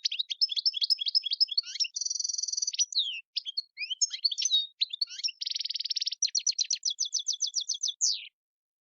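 European goldfinch singing a long, fast twittering song of sharp chirps, sweeping notes and buzzy trills, which cuts off abruptly near the end.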